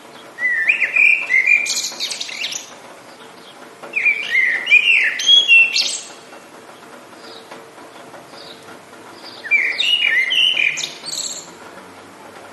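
A songbird singing three phrases of about two seconds each, a few seconds apart, over a faint steady hiss of rain.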